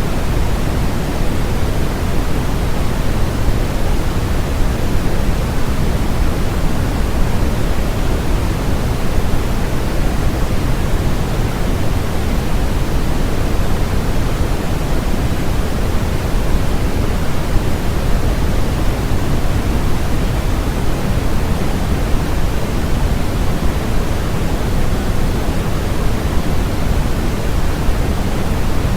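Synthesized noise played as a steady, unchanging rush, weighted toward the low end so it sounds deeper than flat white noise, closer to pink noise.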